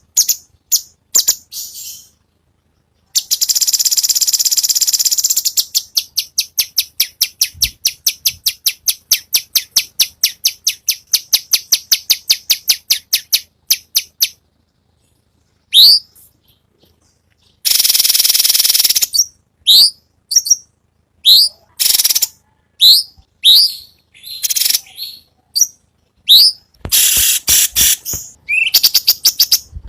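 Cucak cungkok singing loudly in high notes. It opens with a harsh buzzy stretch and a long run of quick repeated notes, about five a second. Then come a rasping burst and a string of sharp notes, each sweeping upward, about one a second.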